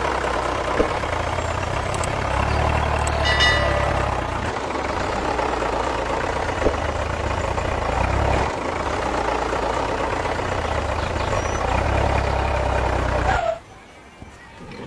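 A motor running steadily, a low hum under a hiss, that cuts off suddenly near the end.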